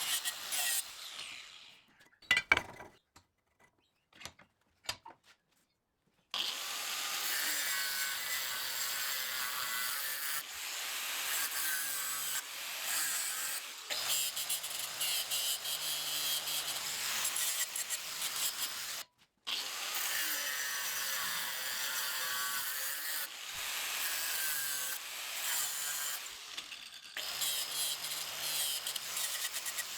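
MIG welding in two long runs, roughly twelve and eight seconds, each stopping abruptly, after a few sharp metal clinks near the start.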